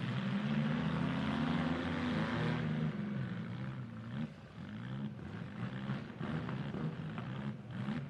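Demolition-derby mini truck engines revving, their pitch rising and falling over and over, over a steady noisy haze.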